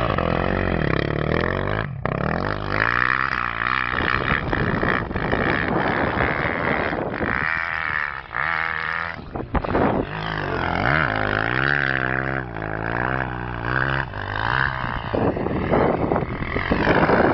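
Motocross bike engine revving hard and unevenly, its pitch rising and falling with the throttle, with brief dips about two seconds in and again about halfway through.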